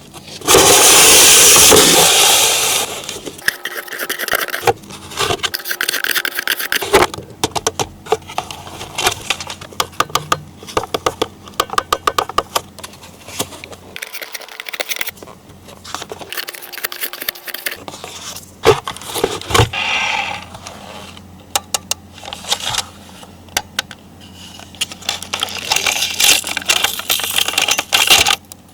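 Hands handling toy packaging and hard plastic toy parts: a loud noisy burst for about the first two seconds, then many small clicks, taps, rattles and scrapes.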